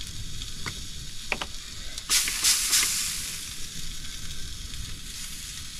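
Sausages and black pudding sizzling steadily in a Ridgemonkey pan on a gas camping stove, with a couple of light clicks early on. About two seconds in, a few squirts of spray oil hit the hot pan and the sizzle flares up louder for about a second before settling back to a steady fry.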